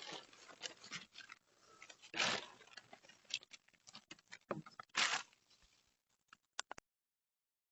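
Faint handling noises: a few soft rustling swishes, about two and five seconds in, among scattered light clicks and taps.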